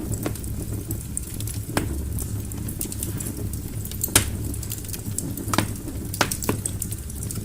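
Wood fire burning in a fireplace: a steady low rumble of the flames with scattered sharp crackles and pops from the burning logs, the loudest pop about four seconds in.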